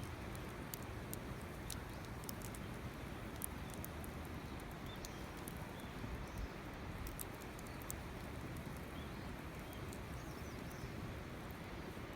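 Campfire crackling: scattered sharp snaps and pops over a steady low rush.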